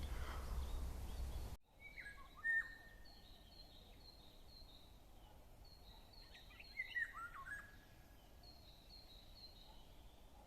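Wild birds calling in a forest: rows of short, high chirps repeated several times, with a few louder, lower calls about two seconds in and again around seven seconds in. A low rumbling noise at the start cuts off abruptly about one and a half seconds in.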